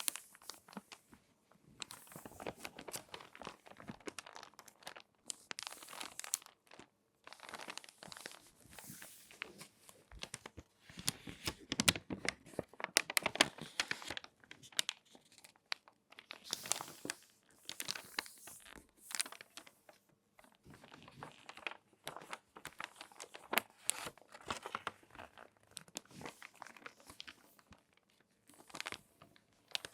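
Crinkly magazine pages being folded and handled close up: irregular crackling and rustling in bursts with short pauses, loudest a little before the middle.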